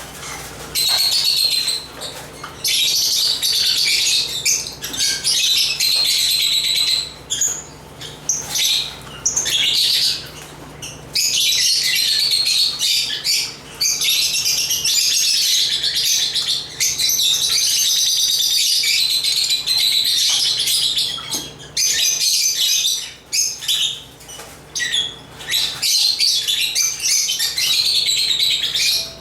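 Lovebirds chattering: rapid, high-pitched chirping and squawking in long stretches of several seconds, with short breaks between.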